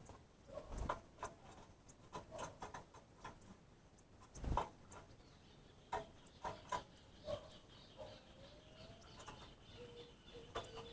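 Birds close by: short, soft low calls mixed with scattered sharp ticks and taps.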